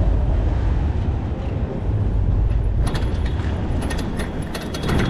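Steady low rumble of wind and road noise while riding a bicycle, with a quick run of rattling clicks from about three seconds in to near the end.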